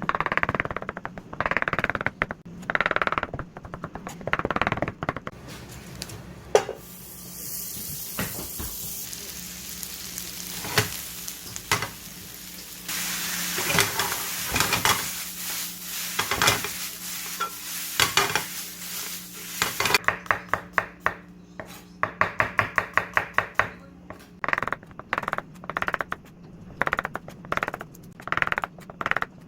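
A spatula stirring and scraping a pan of tomato sauce as it sizzles and simmers, with knocks of the utensil against the pan. Near the end there is a quick run of about eight even taps.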